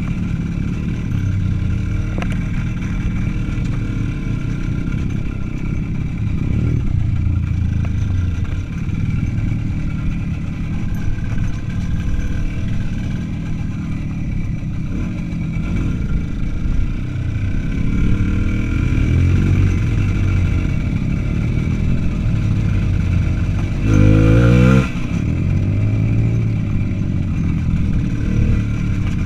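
Small single-cylinder motorcycle engine running under way, its pitch rising and falling with the throttle. About 24 seconds in it revs hard and briefly, the loudest moment.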